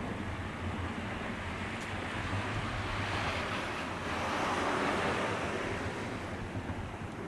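Nose Electric Railway train rolling through the station, heard as a steady rushing noise over a low hum. The rushing swells about four to five seconds in.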